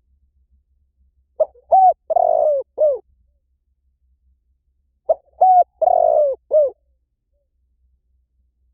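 Spotted dove cooing: two phrases a few seconds apart, each of four notes, the third note the longest.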